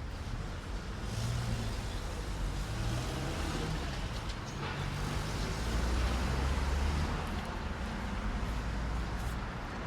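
Street traffic: a motor vehicle's engine rumble grows to its loudest about six to seven seconds in, over a steady hiss of city noise.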